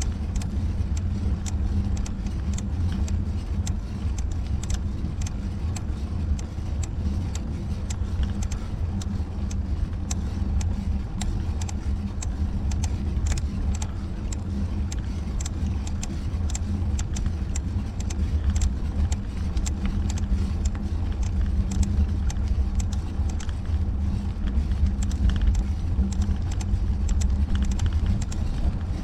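Steady low rumble of riding noise (road and wind) picked up by a bike-mounted action camera, with many small rattling clicks throughout, a little louder in the second half.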